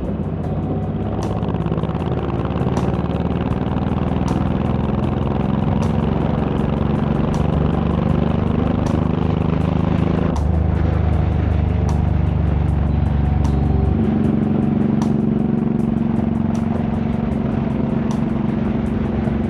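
Honda VTX1800's big V-twin engine running under way, a steady, loud exhaust note. The note changes abruptly about halfway through and again about four seconds later.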